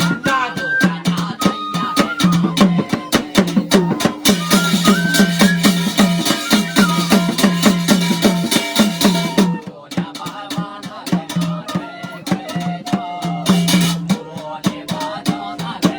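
Garhwali jagar folk music, instrumental with no singing: fast, rapidly repeated drum strokes under a wandering melody line. A brighter shimmer fills the upper range from about four seconds in to nearly ten seconds.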